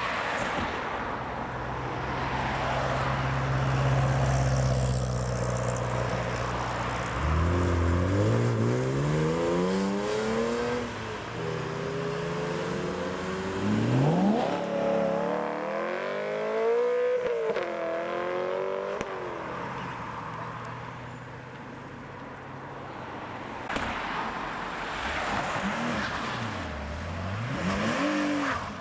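BMW cars driving past and accelerating away, their engines revving. A steady engine note runs for the first several seconds, then the revs climb sharply several times, at about eight, fourteen and seventeen seconds in, with another dip and rise in revs near the end.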